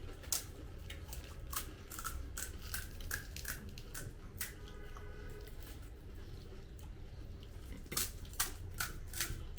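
Crisp fuchka (pani puri) shells crunching and cracking, irregular sharp crackles as they are bitten and chewed, with a cluster of louder cracks near the end.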